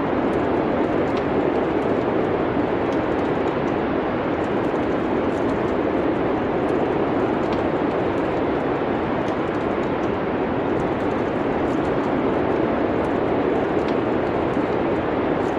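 Steady rushing wind of a winter storm ambience, with faint, scattered crackles and pops from a wood fire.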